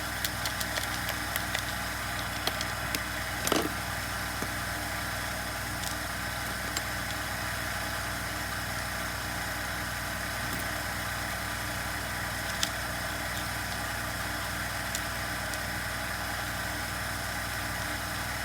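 A steady mechanical hum, with scattered light clicks and taps of small parts being handled and one sharper click about three and a half seconds in.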